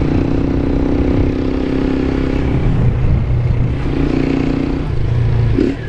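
Honda CG 160 motorcycle's single-cylinder engine running at a steady speed while riding, with wind rumbling on the microphone. The engine note eases off about halfway and picks up again near four seconds in.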